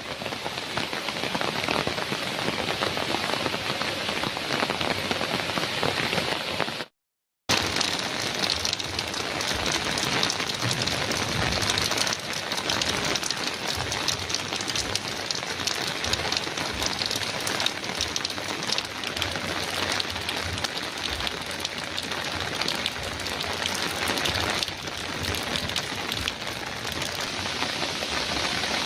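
Heavy rain pattering steadily on a metal roof, dense drumming with many individual drop ticks. About seven seconds in, the sound cuts out completely for about half a second and then resumes.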